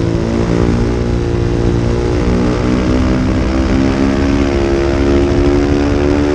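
Small-displacement racing motorcycle engine running hard under load, its pitch climbing slowly and steadily as the bike accelerates.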